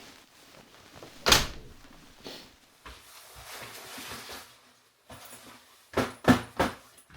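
Knocks and thumps of objects being handled: one heavy thump about a second in, a stretch of rustling, then three quick knocks in a row near the end.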